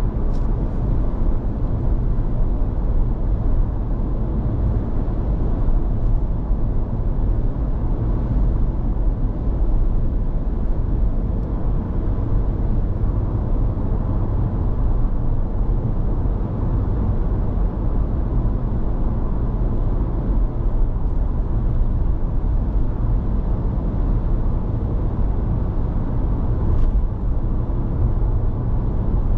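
Steady road and running noise heard inside the cabin of a Honda ZR-V cruising, a low, even rumble with a faint light click about a second in and again near the end.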